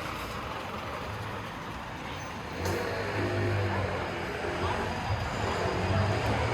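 Busy city street ambience: steady traffic noise, with a vehicle's low engine rumble growing louder about two and a half seconds in, and faint voices of passers-by.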